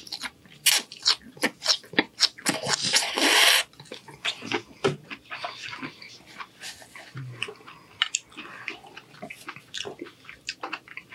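Close-miked chewing and wet lip-smacking of a mouthful of roasted asparagus, with a loud slurp about three seconds in; the chewing then goes on more quietly.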